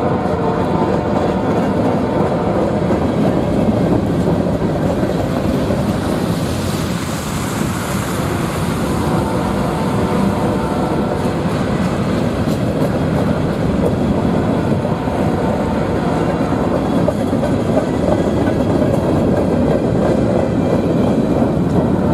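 A train passing close by: diesel locomotive engines running along with the steady rumble and clatter of steel wheels on the rails.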